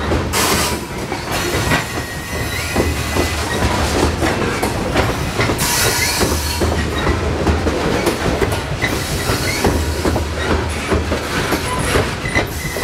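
Coal hopper cars rolling over jointed rail on a steel viaduct: steady rumble with rapid clacking as the wheels cross the rail joints, and a few short wheel squeals.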